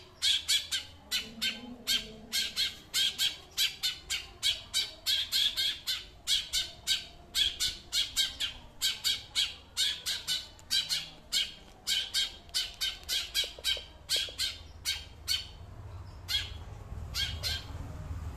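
A small bird calling in a fast, harsh chatter of short, sharp notes, about three a second. The notes grow sparser near the end.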